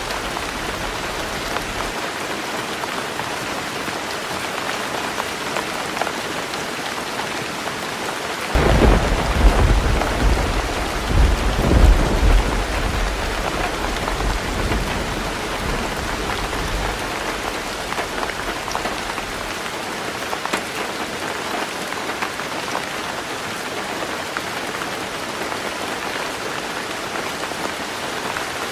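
Heavy rain falling steadily on a roof, a dense patter of drops. About eight seconds in, a roll of thunder rumbles in, loudest a few seconds later, and fades away over several seconds.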